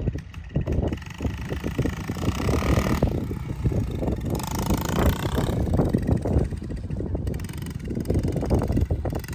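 Small dirt bike engine revving, its pitch climbing and falling twice as it rides, over a choppy low rumble of wind on the microphone.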